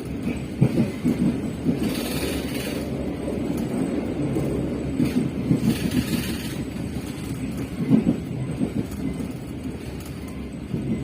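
Passenger train running along the track: a steady low rumble with occasional knocks from the wheels on the rails, and two spells of hiss partway through.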